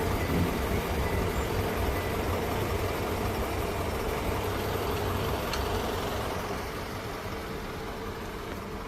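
Steady low rumble of a train moving off, with a steady hum, fading gradually over the last few seconds.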